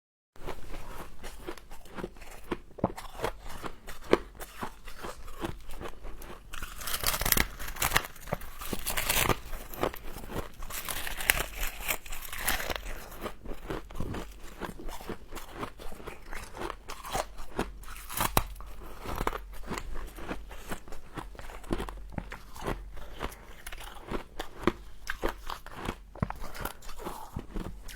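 Close-up crunching and chewing of frost: fast, crackly bites into compacted frost, louder in a couple of stretches.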